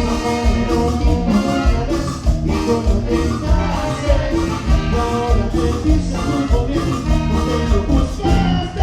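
A cumbia band playing an instrumental passage with a steady beat, keyboard melody and shaker.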